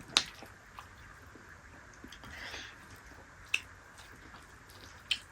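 Close-up mukbang eating sounds: quiet chewing of dried yak meat (sukuti) with a few sharp wet mouth clicks, the clearest just after the start, about three and a half seconds in and near the end.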